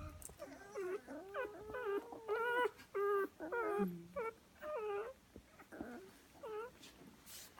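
Young goldendoodle puppies whimpering and squealing: a quick string of high, wavering cries, several overlapping in the first few seconds, becoming sparser near the end.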